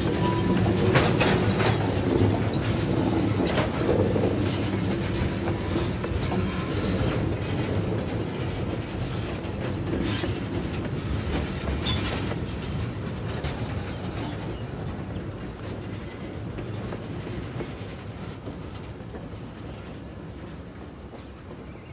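Freight train of tank cars rolling past at close range, steel wheels clacking over the rail joints in sharp clicks that are thickest in the first half. The rumble fades steadily as the last cars clear and the train moves away.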